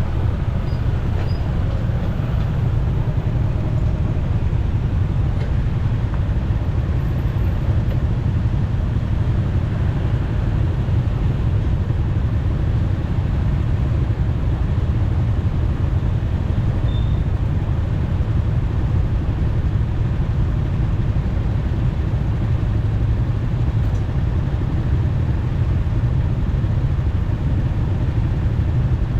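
Steady low rumble of a motorcycle ride in traffic, with engine and road noise at an even level throughout.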